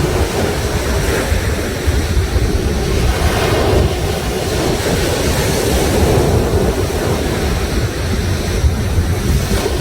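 Sea waves surging and breaking on the shore in a steady wash of surf, with a low rumble of wind buffeting the microphone.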